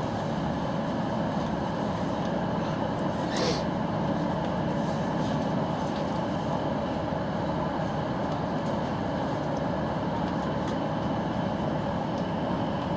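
Steady running noise of a train heard from inside a passenger carriage, through the window glass, with a brief rising squeal about three seconds in.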